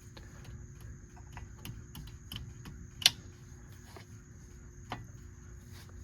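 Light, irregular metal clicks and taps of pliers working a cotter pin through the castle nut on a front wheel spindle, bending it into place. One sharper click comes about three seconds in and another near five seconds.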